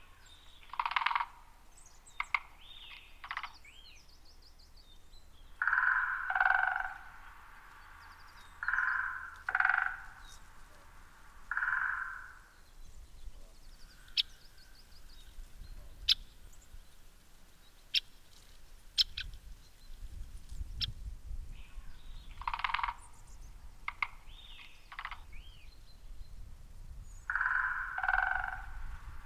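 Wild birds calling: repeated harsh calls about half a second long, coming in groups, with a few short sharp ticks and thin, higher chirps between them.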